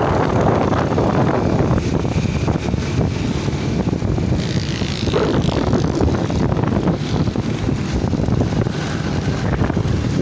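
Wind rushing over the microphone of a moving motorbike, with the bike's engine running underneath.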